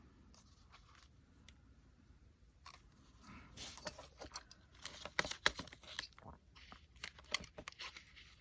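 Paper being handled and torn: short, irregular crackles and rustles that start about three seconds in, after a quiet start.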